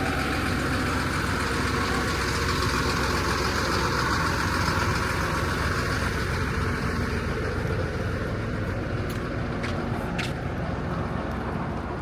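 Motor vehicle engine running close by, likely a truck or bus, a steady noise that swells in the first few seconds and then slowly fades, with a few faint clicks near the end.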